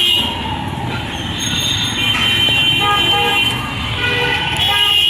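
Several vehicle horns honking, one after another and overlapping, over a steady din of road traffic.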